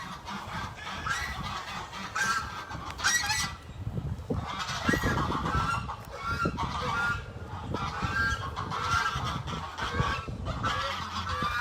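Sebastopol geese honking, a series of short calls about one a second.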